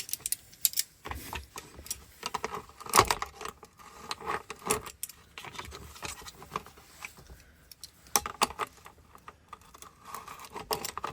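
Irregular metallic clicks, clinks and light scrapes of small lock parts and tools being handled during reassembly of a Ford ignition lock switch, with a sharper knock about three seconds in.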